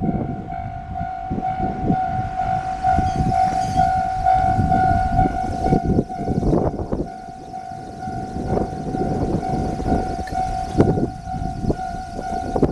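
Aizu Railway train arriving, with a low rumble and irregular knocks and clatter from its wheels on the track, under a steady high-pitched tone that sounds throughout.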